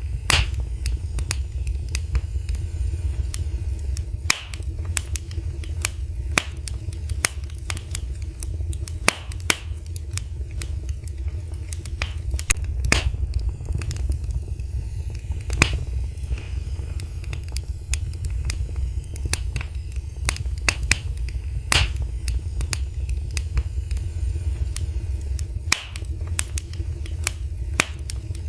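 Wood fire crackling in a fireplace: many irregular sharp pops and snaps, some louder than others, over a steady low rumble of the flames.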